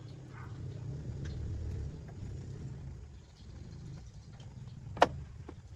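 Low, steady engine rumble that swells briefly and then eases, with one sharp click near the end.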